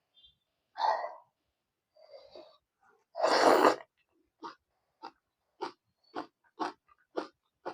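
Close-miked mouth sounds of someone eating fried pork and rice: a few separate mouthfuls, then a louder, longer rough sound a little after three seconds, then steady chewing smacks about twice a second.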